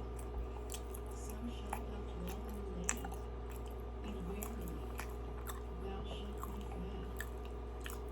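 Close-up chewing of a Krispy Kreme doughnut: soft, wet mouth sounds with scattered small clicks, over a steady low hum.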